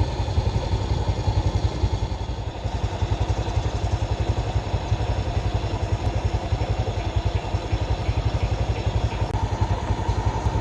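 An engine running steadily with a rapid, even low throb.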